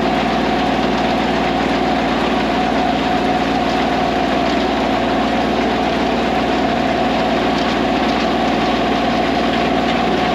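Diesel tractor engine running steadily under load, with the small round baler's machinery working behind it, a constant hum over a dense mechanical din.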